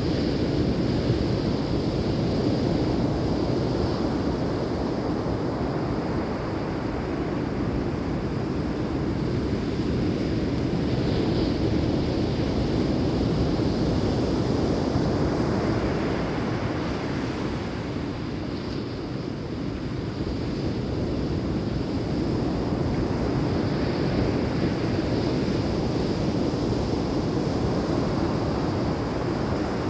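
Ocean surf washing in steadily, rising and falling in long swells, with wind rumbling on the microphone.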